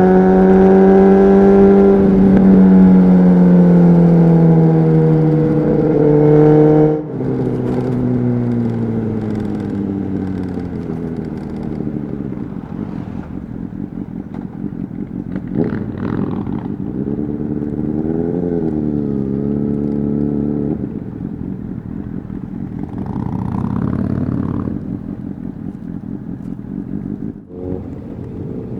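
Honda CBR600RR's inline-four engine through a Leo Vince exhaust, heard on board: held at high revs for about seven seconds with the pitch sagging slowly, then the throttle shuts off abruptly and the engine runs on at lower revs, with a short rise and fall in revs later on.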